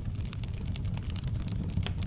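Fire in a fireplace crackling, with many irregular sharp pops and snaps over a steady low rumble of the flames.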